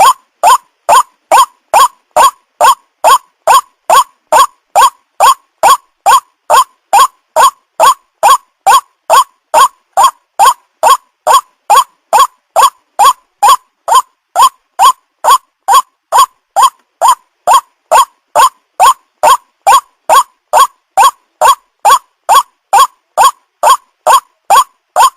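White-breasted waterhen (ruak-ruak) calls repeated in a steady, unbroken series of short notes, about two a second, played as a lure call to attract the birds.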